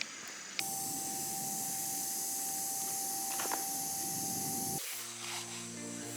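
A steady hiss with a thin held tone, cut in suddenly and cut off after about four seconds, then gentle background music begins near the end.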